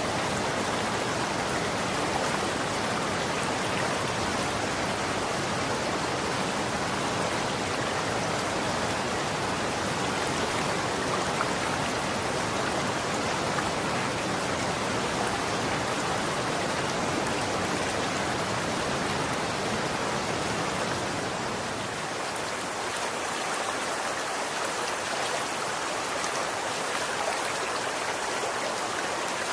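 Running water rushing steadily, a dense even hiss with no separate splashes or drops standing out.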